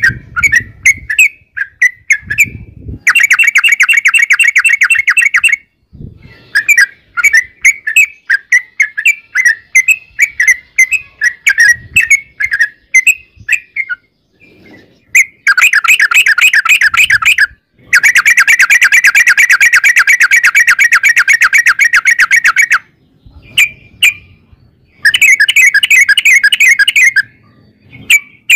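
Yellow-vented bulbul (trucuk) singing loudly: quick, bubbly chirping phrases broken by several long, fast rattling trills of a few seconds each, the 'ropel panjang' run of notes.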